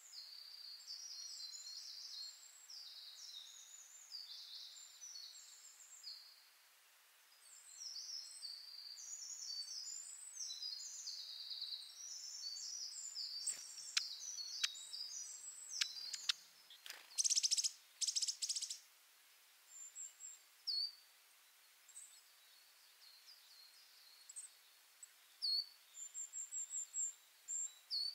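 Birds chirping and singing: a dense run of quick, high chirps for the first dozen seconds or so, then a few sharp clicks and harsher calls, then scattered single chirps.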